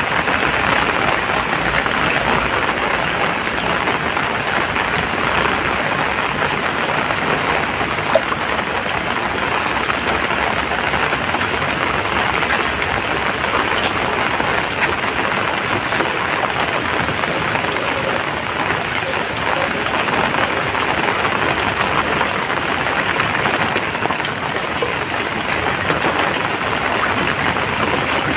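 Heavy rain falling steadily, an even, unbroken hiss of raindrops.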